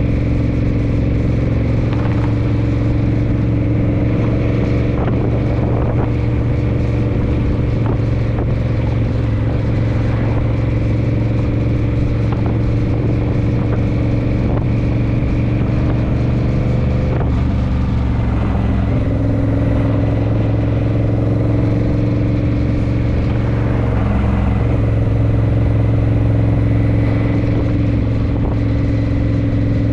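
Honda Rebel motorcycle engine running steadily while riding, with wind and road noise. The engine note changes briefly a little past halfway.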